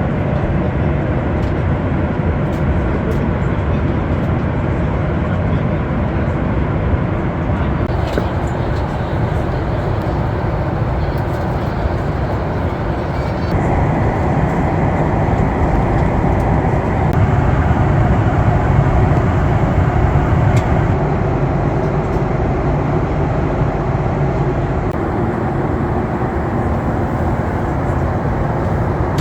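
Steady in-flight cabin noise of a Boeing 737 MAX 8: engine and airflow rumble heard from a forward window seat. The noise rises a little about halfway through.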